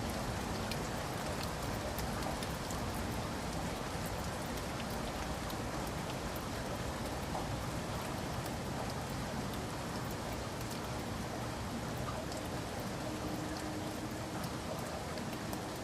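Steady rain, an even hiss of falling rain with scattered individual drop ticks.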